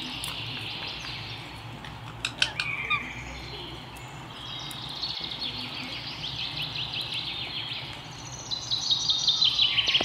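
Bird chirping in quick trilled runs, loudest near the end, with a few sharp clicks a couple of seconds in, over a steady low background hum.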